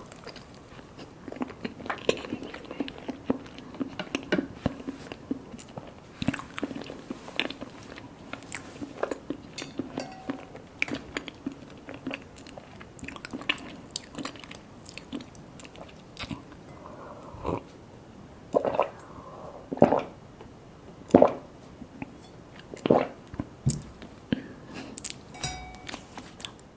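Close-miked eating: mini mousse cakes being bitten and chewed, with many small wet mouth clicks and a few louder sharp clicks in the second half.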